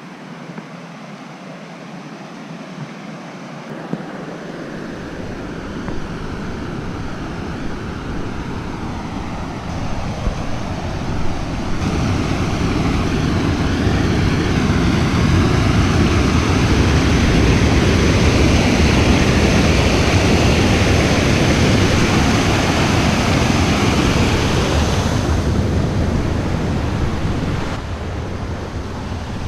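Rushing water from a waterfall, a steady roar that grows louder over about twenty seconds as the microphone gets closer, then falls back a little near the end.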